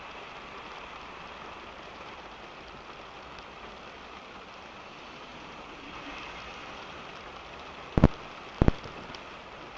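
Steady rain falling on a car, heard from inside the car as an even hiss. Near the end come two loud, sharp knocks, a little over half a second apart.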